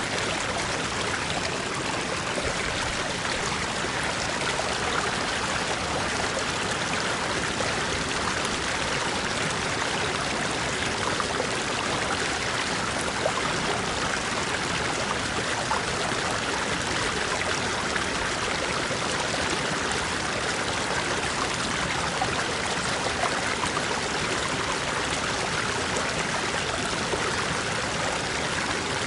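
A small stream flowing over rocks, a steady rush of water with a trickling, babbling sound.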